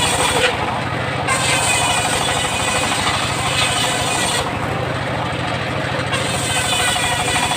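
Engine of a homemade circular sawmill rig running steadily with a fast, even firing rhythm. A higher hissing layer above it drops out twice for a second or so.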